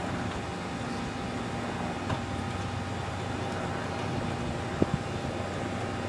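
Steady mechanical hum from the Cessna 310 during the start of its freshly overhauled Continental O-470 engine, before the engine has caught, with a faint click about two seconds in and another about five seconds in.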